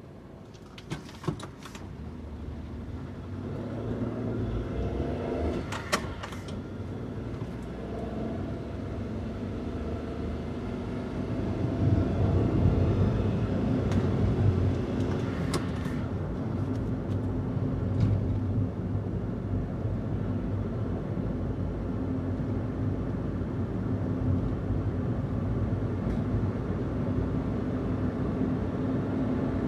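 Daihatsu Hijet kei van's stock-exhaust engine running while driving: the revs and level climb over the first twelve seconds or so, then it holds at a steady cruise. A few sharp clicks sound near the start and again around six seconds in.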